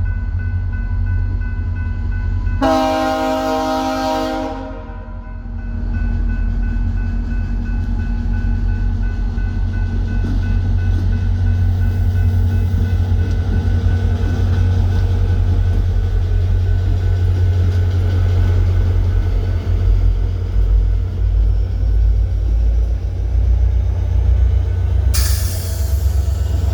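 A VIA Rail diesel locomotive rumbling steadily, with one horn blast of about two seconds a few seconds in. Near the end a sudden loud hiss starts.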